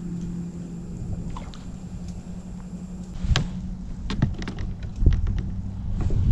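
A steady low hum, then a series of sharp knocks and clicks from about three seconds in, typical of fishing gear being handled on a plastic kayak.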